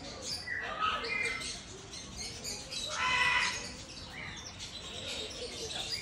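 Birds chirping with many short, high calls, and one louder, longer call about three seconds in.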